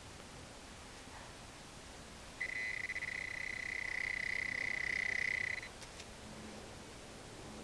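Handheld metal-detecting pinpointer giving a steady high-pitched alert tone for about three seconds, starting and stopping abruptly: it is signalling a metal target in the dug hole.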